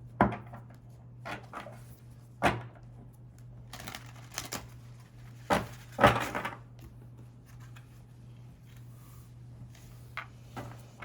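Tarot cards being handled and laid down on a table: irregular sharp taps and knocks, about eight of them, over a steady low hum.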